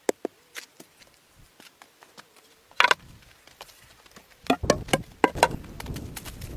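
Irregular sharp knocks and clicks, sparse at first, with a louder knock about three seconds in and a quick cluster of them near the end.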